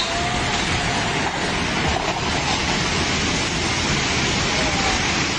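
Flash-flood torrent rushing: a steady, dense roar of fast-moving floodwater that does not let up.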